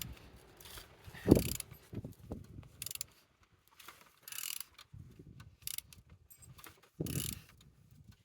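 Used car engine (code 5V23) being turned over by hand with a tool on the crankshaft: uneven spurts of mechanical clicking and turning noise, with a sharp knock about a second in. It turns freely.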